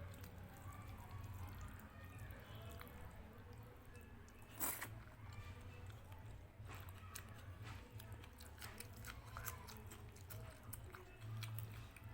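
A person chewing and biting food close to the microphone, with crisp crunching clicks throughout and one louder crunch about four and a half seconds in.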